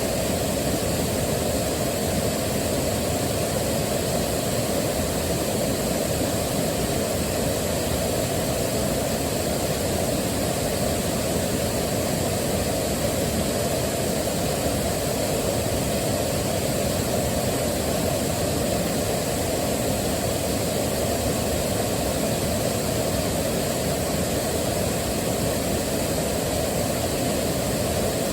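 Waterfall: a steady, unchanging rush of falling water, heaviest in the low and middle range.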